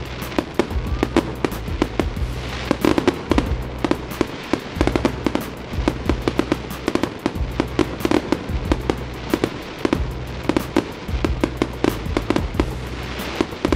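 Fireworks popping and crackling in quick succession, several sharp cracks a second, over a low steady rumble.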